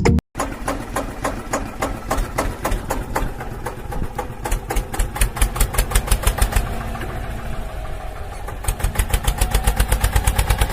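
Small engine of a miniature DIY drain-digging tractor running with a rapid, regular chug of firing pulses, picking up speed and evening out about three-quarters of the way through.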